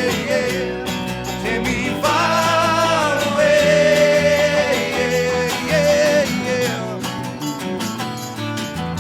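Rock and roll song with guitars, a steady beat and singing, carried by long held notes that bend in pitch.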